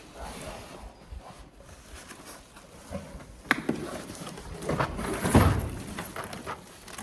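Irregular knocks and rustling from unboxing and handling a bathroom exhaust fan-light and its packaging, with a sharp click about three and a half seconds in and a louder run of handling knocks a little after the middle.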